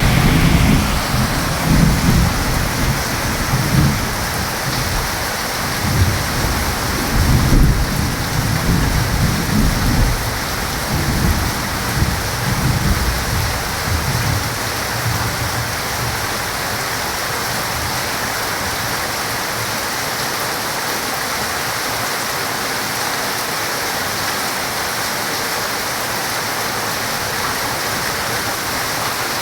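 Heavy rain falling steadily with rolling thunder rumbling low for the first half, dying away about halfway through and leaving the rain alone.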